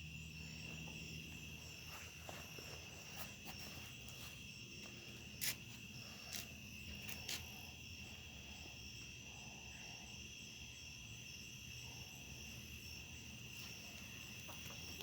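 Crickets chirping in a steady, continuous high trill. A few sharp clicks stand out in the middle.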